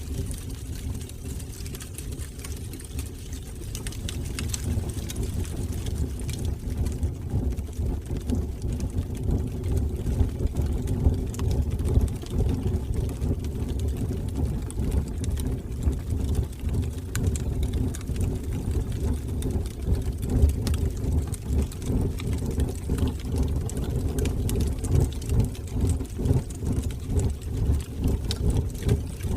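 Wood fire burning in a fireplace: a steady low roar of flames with scattered small crackles and pops, a little louder after the first few seconds.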